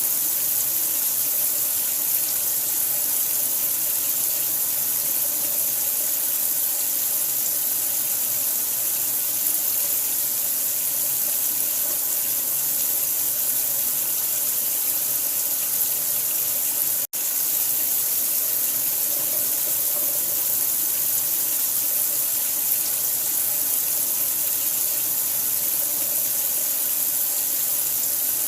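Water running steadily, an even, unbroken rush strongest in the high end. It cuts out for an instant about 17 seconds in, then carries on unchanged.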